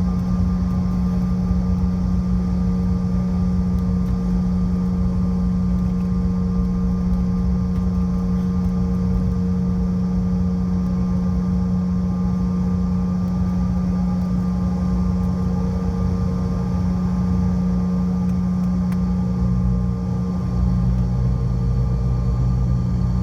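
Steady engine drone heard inside the cabin of a CRJ700 regional jet from its two rear-mounted GE CF34 turbofans: a strong low hum over a rushing rumble, with fainter steady whining tones above. The low rumble dips briefly near the end and comes back.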